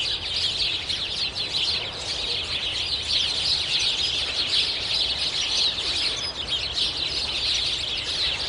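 A dense chorus of many small birds chirping, a steady high twittering of quick overlapping calls.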